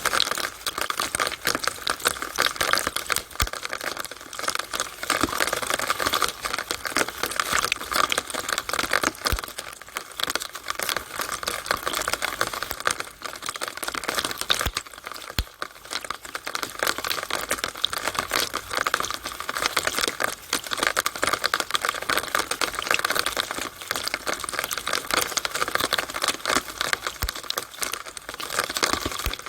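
Rainwater running and dripping inside a downspout (rain drain pipe): a dense, irregular patter of drops and trickling water at a steady level.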